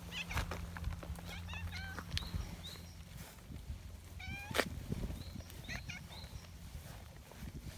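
Orange-and-white cat meowing: a few short meows at about a second and a half in, then a longer meow about four seconds in, followed by a sharp click.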